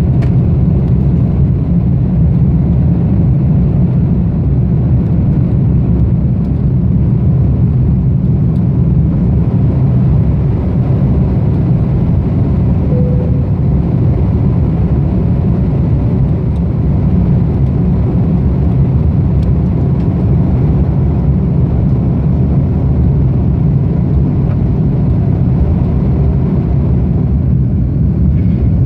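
Steady, loud low rumble of an Airbus A330-200's jet engines and airflow heard from inside the cabin during takeoff.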